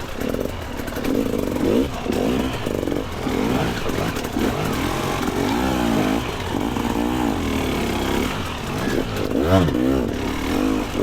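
Two-stroke dirt bike engine being ridden on a trail, revving up and easing off over and over, with some clatter.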